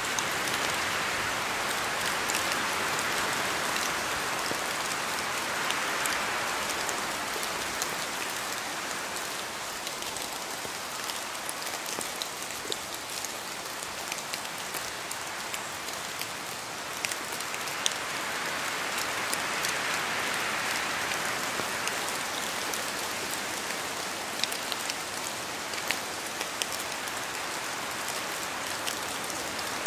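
Steady rainfall, an even hiss of rain on a surface with many individual drops pattering through it, swelling and easing gently a couple of times.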